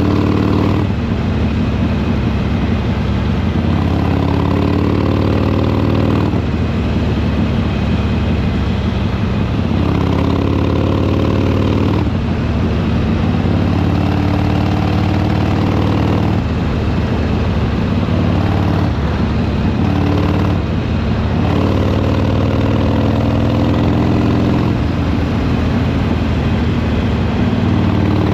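Harley-Davidson Sportster Iron 883's air-cooled 883 cc V-twin exhaust under way, the revs climbing again and again with short breaks between, like a ride being taken up and through the gears.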